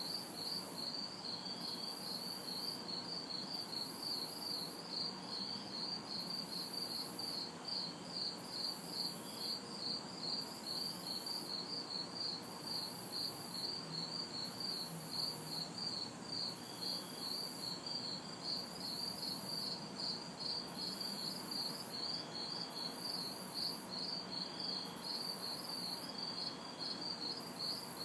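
Night chorus of crickets and cicadas: a steady, rhythmic pulsing chirp with a higher, shrill buzz switching on and off about once a second. A faint hum of distant city traffic sits underneath.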